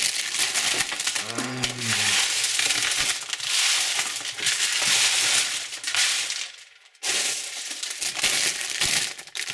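Plastic candy wrappers crinkling and crackling as packs of sweets are handled and opened, with a short break about seven seconds in.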